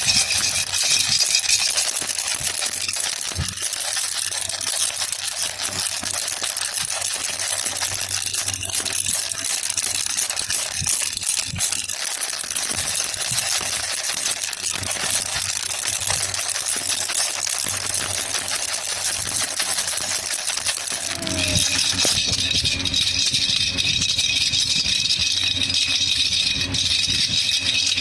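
Baby rattle (jhunjhuna) shaken continuously, its beads making a dense, steady rattling patter. About three-quarters of the way through, the sound changes character and takes on high ringing tones, like a second, jingling rattle.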